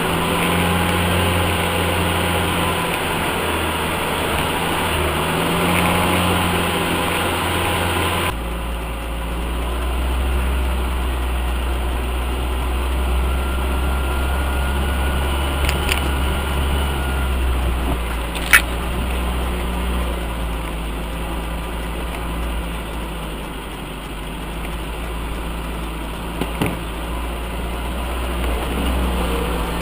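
UAZ off-road vehicle's engine running steadily at low revs. The sound changes abruptly about eight seconds in, and there is a sharp knock around eighteen seconds in.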